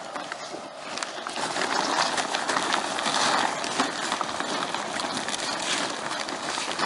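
Heavy plastic of an AquaDam tube rustling and crinkling as it is dragged and unrolled over the ground, with many small irregular crackles and scuffs.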